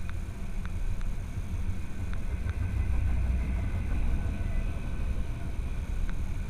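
Steady low vehicle rumble, a little louder around the middle, with faint scattered ticks.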